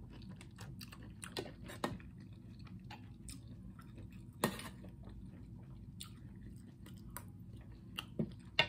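Close-up chewing and mouth sounds from eating sauced sausage: small wet clicks and smacks scattered throughout. There is one sharper click about halfway through.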